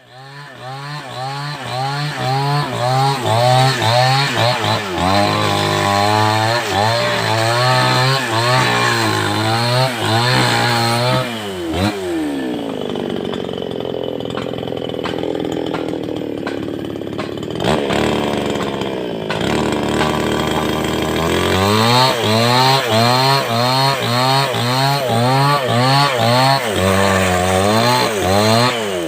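A large 070/707-type two-stroke chainsaw starts up and runs hard. Its engine speed surges up and down over and over. For several seconds in the middle it drops to a lower, rougher note, then it surges again.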